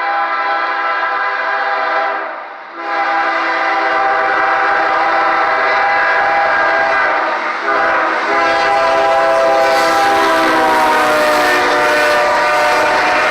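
Horn of a CSX freight train's GE ES40DC locomotive sounding long chord blasts, with a short break about two and a half seconds in and a brief one near eight seconds. Engine and wheel noise builds underneath as the train approaches, and the horn's pitch sags slightly near the end as it passes.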